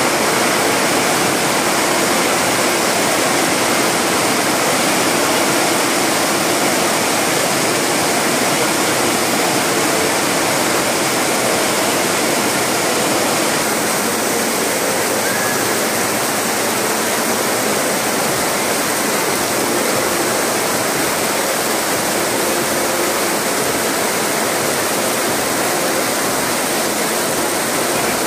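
Heavy tropical rain falling on flooded paving, a loud, steady hiss of rain and splashing water that turns slightly duller about halfway through.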